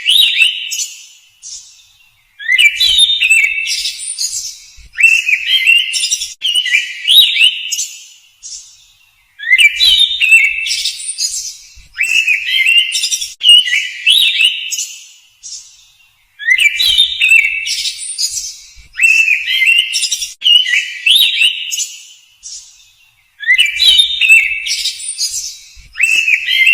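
Songbird singing short, whistled, gliding phrases in groups of three or four with brief pauses between groups; the same sequence repeats about every seven seconds.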